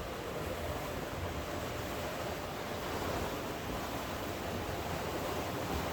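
Steady rushing wash of sea surf and rain.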